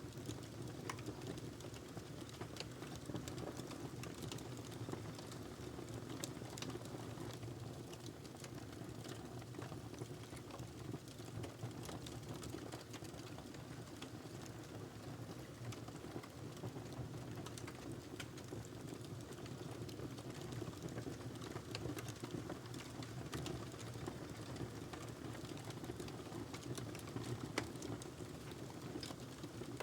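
Log fire burning in a fireplace: a steady low rush of flame with frequent small crackles and pops, one a little louder near the end.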